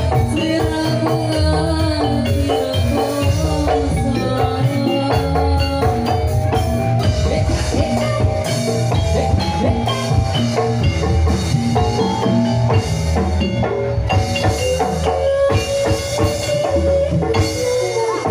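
Instrumental music from a live Javanese band: a melody on mallet percussion over a steady drum beat, with no singing.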